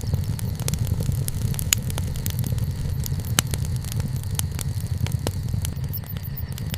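Wood campfire burning, with frequent sharp crackles and pops over a steady low rumble; two louder snaps come about two seconds in and near the middle.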